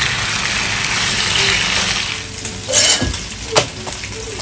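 Marinated chicken pieces sizzling in hot oil in a frying pan, easing off after about two seconds. After that a softer sizzle is heard, with a couple of sharp clicks of a metal spatula on the pan.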